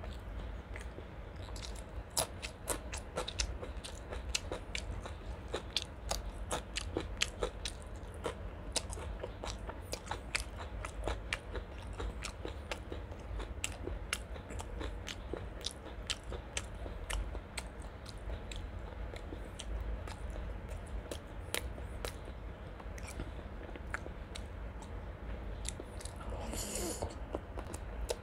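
A person chewing close to the microphone, a mouthful of curried chicken liver, gizzard, rice and raw green vegetable stems: wet chewing broken by many quick, irregular crisp crunches and clicks.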